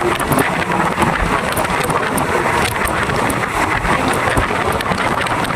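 Steady rush of wind and running noise from a moving passenger train, with a constant stream of faint clicks.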